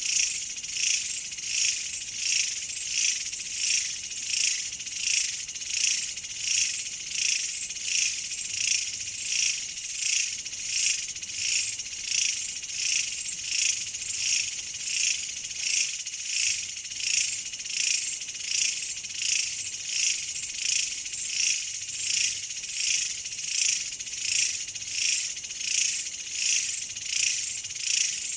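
A chorus of insects, high-pitched and pulsing in a steady, even rhythm of about one and a half pulses a second.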